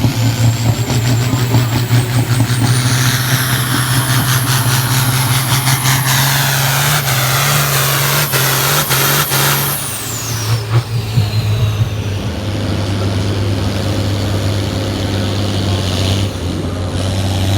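Farm stock pulling tractor's diesel engine running at full power under load, with a wide roar and a high whine. About ten seconds in it backs off, the whine gliding down as the engine settles to a lower steady run.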